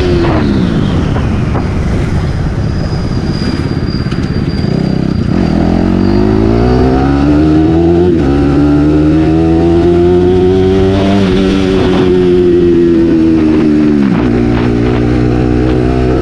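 Bajaj Pulsar NS200's single-cylinder engine and exhaust under way. The engine note falls steeply at the start as the bike slows. It then climbs again, dips briefly about eight seconds in as it shifts, and holds high before dropping about fourteen seconds in.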